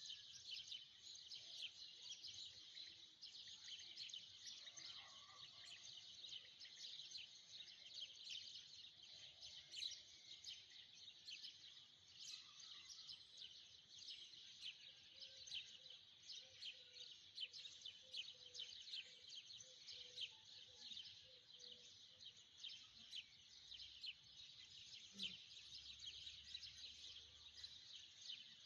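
Faint, continuous chirping of many birds, a dense high-pitched chorus with no break.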